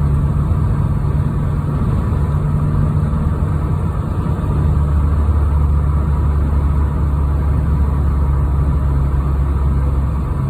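Steady engine and road noise heard from inside a moving car, with a low hum throughout. About four and a half seconds in, a deeper drone comes up and holds.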